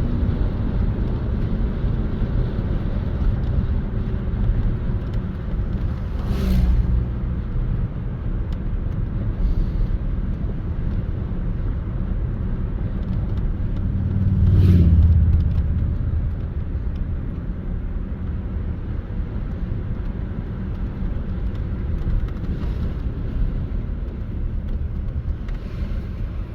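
Car driving uphill on a mountain highway: steady engine and road rumble. It swells briefly twice, about six seconds in and more strongly around fifteen seconds in.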